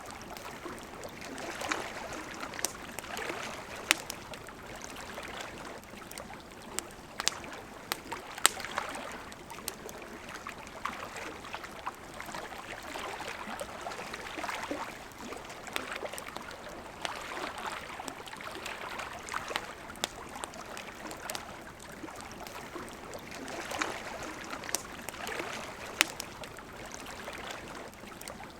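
Wood campfire crackling with scattered sharp pops over a steady babble of river water.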